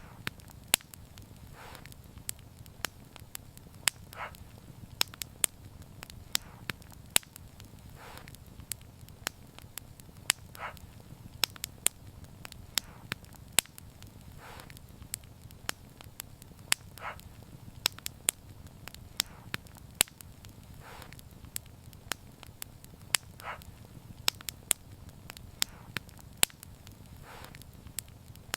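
Wood fire burning, with frequent sharp crackles and pops over a low steady rumble of flame, and a soft hiss every few seconds.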